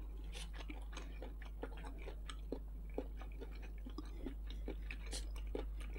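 Close-miked chewing of a mouthful of rice stir-fry: faint, irregular wet mouth clicks and smacks over a low steady hum.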